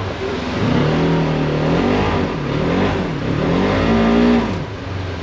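Polaris Xpedition side-by-side engine revving up and down several times as it digs in the snow, stuck while pulling a load; the revs drop away shortly before the end.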